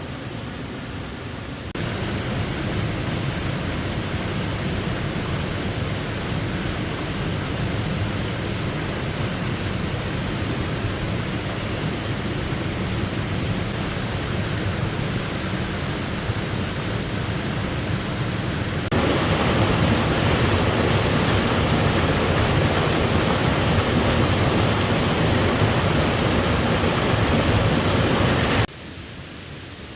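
Steady rushing water of a waterfall. It jumps louder about two seconds in, louder again about two-thirds of the way through, then drops suddenly near the end.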